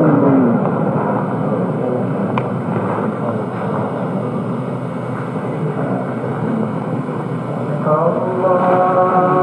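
The imam's drawn-out chanted voice tails off at the start, and another long chanted call begins about eight seconds in. Between them runs the steady loud hiss and rumble of an old mosque recording.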